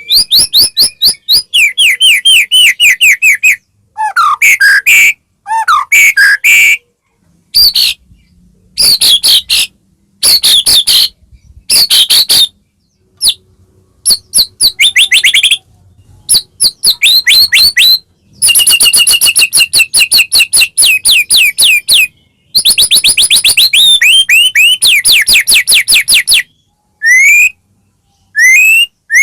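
White-rumped shama (murai batu) singing loudly: phrases of fast, rapidly repeated high whistled notes and trills, one to four seconds each, broken by short pauses.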